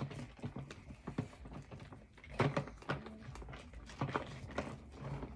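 Small toy truck clicking and knocking against its container at irregular intervals as it is scrubbed and handled.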